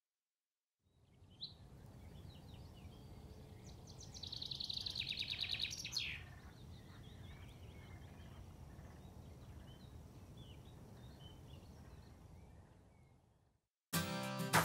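Outdoor ambience of birds calling over a steady low background noise. Scattered short chirps surround a rapid trill about four seconds in and a downward-sweeping call about six seconds in. The ambience fades in and out, and music comes in abruptly near the end.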